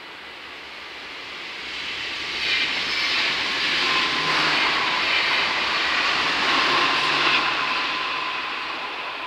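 NS ICMm (Koploper) electric intercity train passing over a level crossing, its wheel-on-rail rumble swelling over the first few seconds, loudest from about two and a half to seven and a half seconds in, then fading away.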